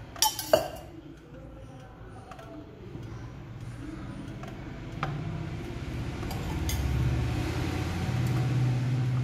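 Two sharp clinks of a steel oil cup against an electric sandwich maker's plates, then handling as sandwiches are laid on the plates, with a steady hum and hiss that grow louder from about halfway through.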